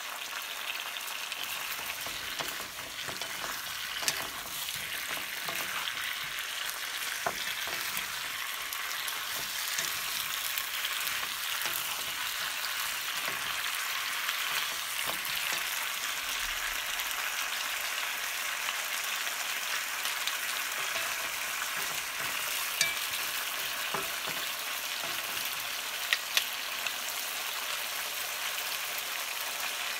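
Sliced potatoes with carrot and onion sizzling steadily in oil in a wok as they are stirred with a wooden utensil, with a few sharp clicks.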